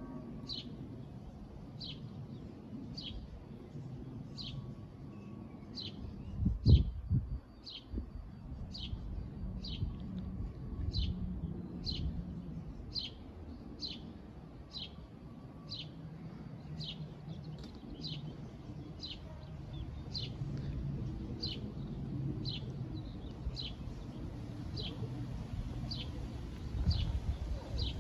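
A bird repeating one short, high call at an even pace, about one call every three-quarters of a second, over a low outdoor rumble. A brief louder low thump comes about a quarter of the way in.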